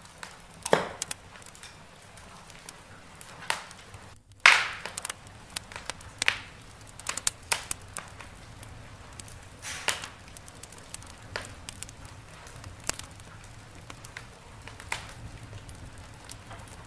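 Wood fire in a fireplace crackling, with irregular sharp pops and snaps, a few of them loud, over a low steady hiss.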